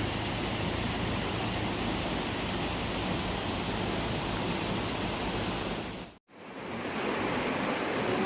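Steady rushing noise with no distinct events, dropping out to silence for a moment about six seconds in and then returning.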